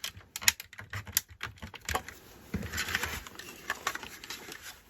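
Plastic model-kit parts clicking and tapping as they are handled and pressed into place: a quick, uneven run of light clicks.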